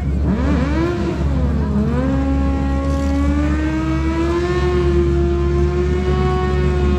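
Drag racing motorcycle engine accelerating hard: the pitch climbs, drops briefly about two seconds in as it shifts gear, then climbs again and holds high as the bike runs down the strip.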